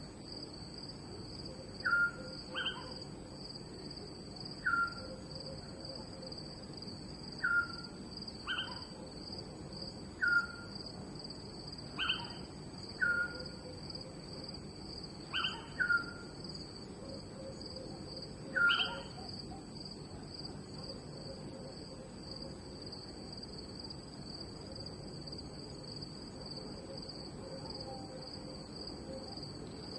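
Crickets chirping in a steady high trill, as in a night-time nature recording. Over it come short calls that slide downward in pitch, one every second or two, from another animal; they stop about two-thirds of the way through.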